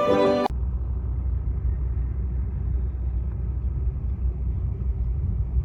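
Music cuts off suddenly about half a second in, giving way to a steady low rumble.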